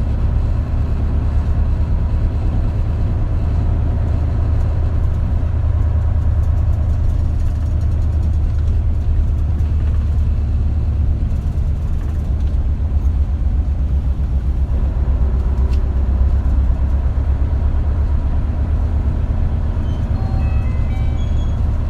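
Inside the cabin of an Isuzu KL-LV280L1 (Erga) diesel route bus under way: the engine drones steadily, with road and body noise. A few short high tones sound near the end.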